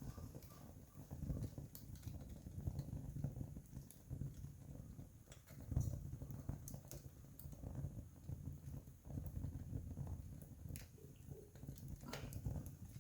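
Wood campfire burning, with scattered sharp crackles and pops over an uneven low rumble.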